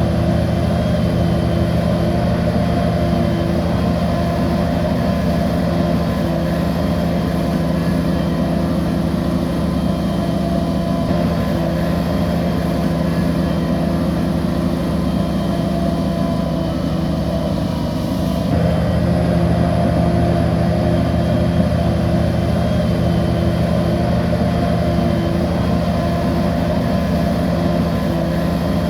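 Bulldozer's heavy diesel engine running steadily. It eases off briefly about two-thirds of the way through, then comes back up.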